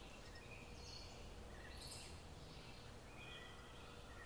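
Quiet room tone with a low steady hum, and a handful of faint, short bird chirps scattered through it.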